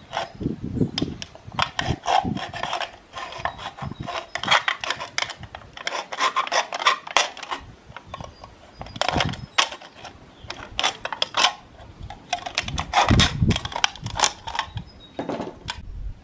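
Knife or blade cutting out a hole along a traced outline: a run of irregular scraping, rasping strokes with short pauses between them.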